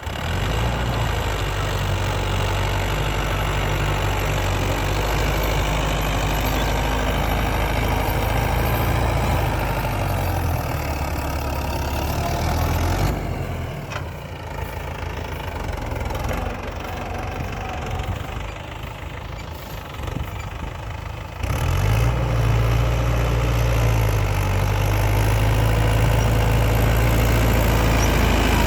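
Mahindra 475 DI SP Plus tractor's diesel engine running steadily while the tractor works a cultivator. Partway through, the sound turns quieter for several seconds, then comes back abruptly at its earlier level.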